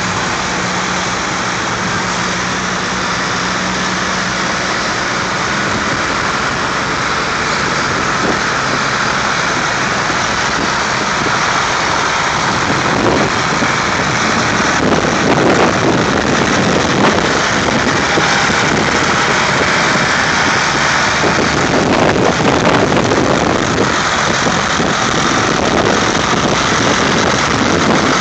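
Vintage tractor engines running as the tractors move off, a steady mix of engine noise that grows a little louder about halfway through.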